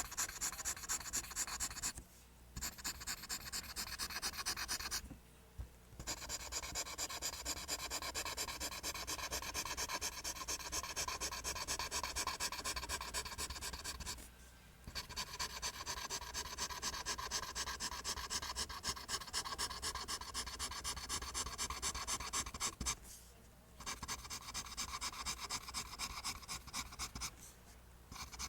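Pencil lead scratching on paper in fast, rhythmic back-and-forth strokes while lines are drawn, stopping briefly about five times.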